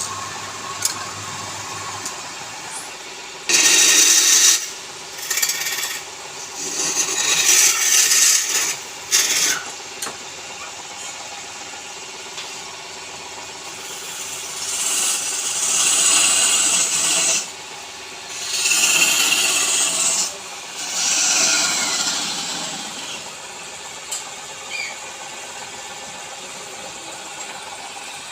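Wood lathe running with a steady hum while a tool is pressed against the spinning wood in repeated passes. Each pass is a hissing, scraping burst of one to three seconds, about six in all, with quieter gaps where only the lathe runs.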